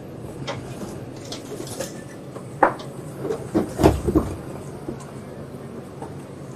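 Demolition: a machine's engine running steadily under a series of knocks and bangs, the loudest cluster a little under four seconds in.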